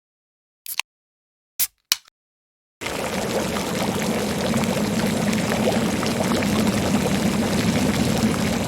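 Three short clicks, then a steady stream of water pouring, starting about three seconds in: a stock pouring-water sound effect.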